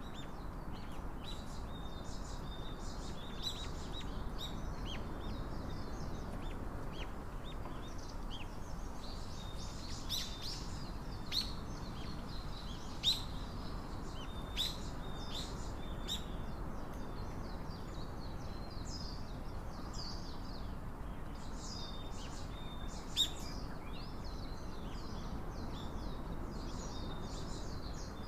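Small birds chirping: many short, high calls throughout, with a few louder ones, over a steady low background hiss.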